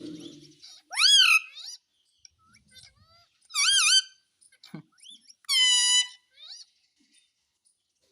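Pet parrot giving three loud, shrill calls: a fast rising squawk, then a wavering warble, then a held flat squawk, with faint chirps between.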